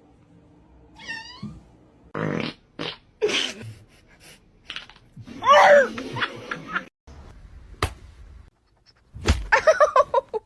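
A cat meowing in several separate calls, the loudest a long wavering one about halfway through, with short noisy bursts in between.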